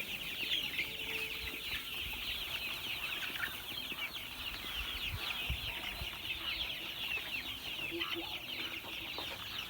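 A flock of month-old chicks peeping continuously, many short high peeps overlapping.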